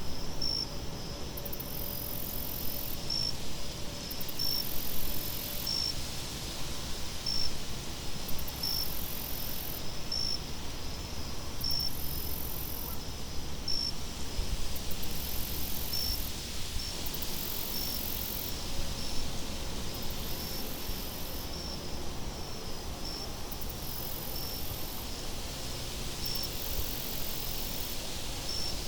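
Ambience of insects chirping: short high chirps about once a second and longer, very high buzzing trills every couple of seconds, over a steady low wind rumble.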